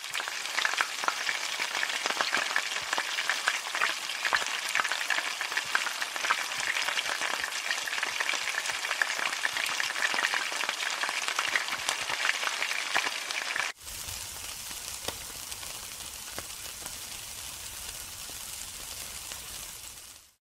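Food frying in hot oil: a dense sizzle full of crackles and pops. About 14 seconds in it cuts to a quieter, smoother sizzle with a low rumble under it.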